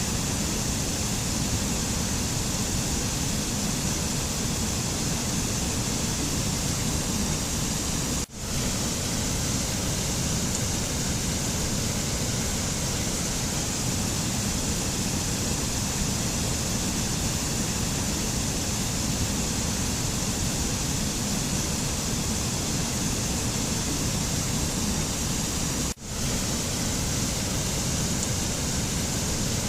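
Steady, even rushing noise of a mountain nature-sound track, like a waterfall or a torrent, with no tune or voice. Twice it cuts out for an instant, about eight seconds in and again near the end.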